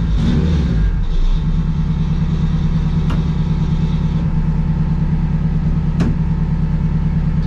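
Car engine coming down off a rev and settling, a little over a second in, into a steady idle. Two sharp clicks sound over it, about three and six seconds in.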